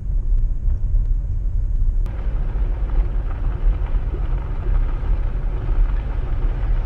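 Car driving: a steady low rumble of engine and road noise, heard from inside the car, turning hissier about two seconds in.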